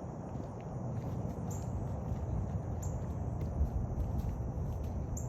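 Outdoor park ambience: faint high-pitched chirps repeating about every second and a half over a steady low rumble.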